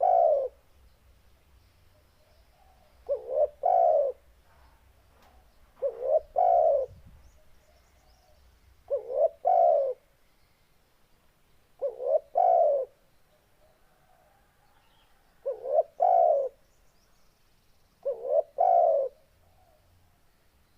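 A spotted dove (tekukur) cooing: seven deep, repeated phrases, one about every three seconds. Each phrase is a couple of short coos followed by a longer one.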